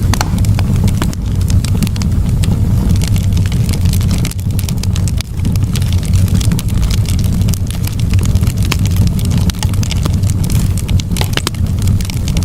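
Campfire burning, crackling and popping irregularly over a steady low rumble.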